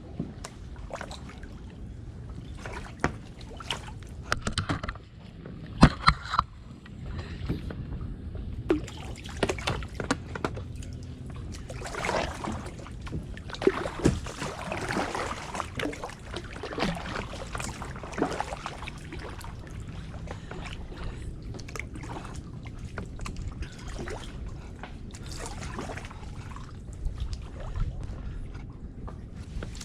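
Kayak paddling: paddle blades splashing and dripping in irregular strokes, with scattered sharp knocks, the loudest about six seconds in.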